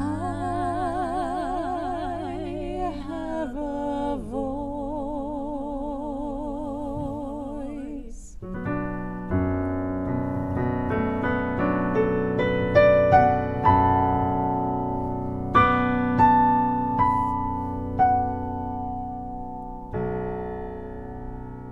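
A long sung note held with vibrato over piano, dipping in pitch about four seconds in and held again until about eight seconds. Then the piano plays alone: slow single notes climbing, and a final chord near the end.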